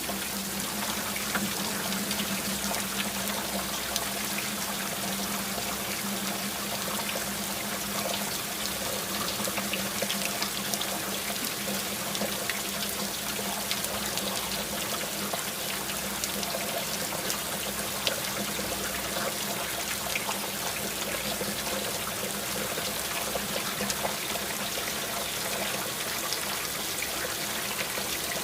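Steady rain with many single drops ticking close by and water running and trickling. A low steady hum sits underneath for about the first twelve seconds, then fades.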